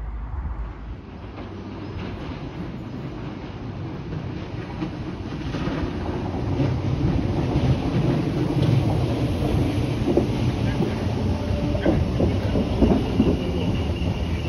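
Merseyrail electric multiple-unit train approaching and running past beneath the camera. Its rumble grows louder from about halfway through, with a run of clicks as the wheels cross the track.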